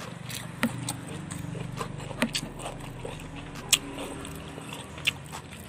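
A person chewing a mouthful of rice and grilled fish close to the microphone, with about five sharp wet mouth smacks a second or so apart, over a low steady hum.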